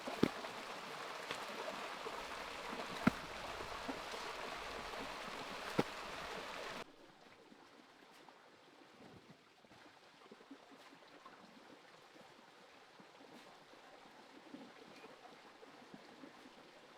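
Steady rush of running water, broken by a few sharp knocks, cutting off abruptly about seven seconds in to a much quieter background with faint ticks.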